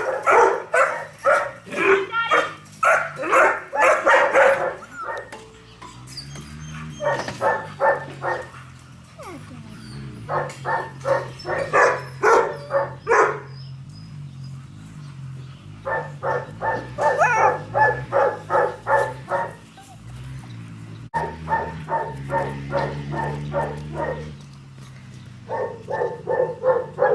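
A dog barking in quick runs of about four barks a second, six bouts of a few seconds each with short pauses between.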